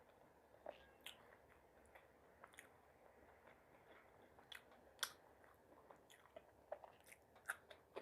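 Faint close-up chewing of food, with scattered soft mouth clicks and small crunches.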